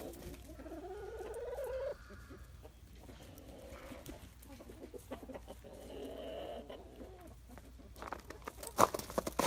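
Chickens clucking and calling, with a drawn-out rising call in the first two seconds and another run of calls about five to seven seconds in. A few sharp knocks near the end.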